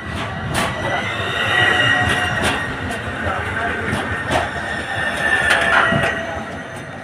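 Tram's steel wheels squealing on the rails, a high steady squeal that sets in about a second in and dies away near the end, over the running rumble, with a few sharp knocks as the wheels cross rail joints.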